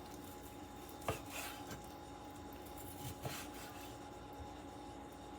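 Faint kitchen handling noises: two light knocks, about a second in and again after about three seconds, over a steady low hum.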